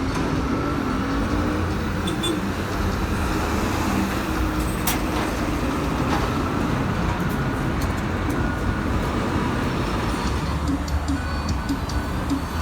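Busy road traffic with diesel city buses and cars passing, a steady low engine rumble. In the first two seconds one engine's note shifts in pitch.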